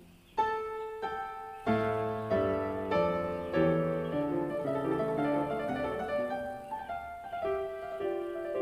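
Background piano music: a slow melody of struck notes.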